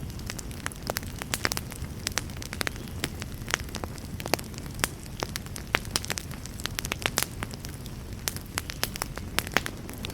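Wood fire crackling: frequent, irregular sharp pops and snaps over a low, steady rumble of burning.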